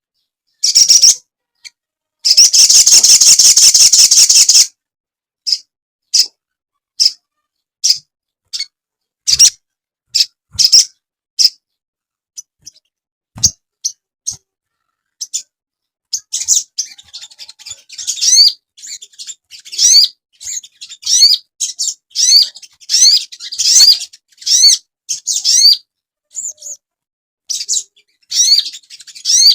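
Crimson sunbird calling with high, sharp chips. A rapid trill comes about two seconds in, then single chips about twice a second, and from about halfway on a fast, chattering run of sweeping notes.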